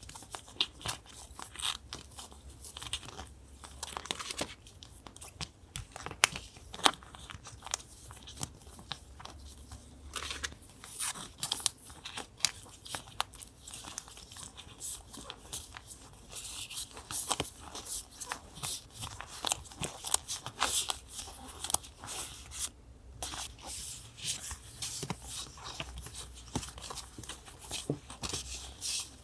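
Paper handled close up for a collage: irregular crinkling, rustling and tearing, with scattered small clicks and taps.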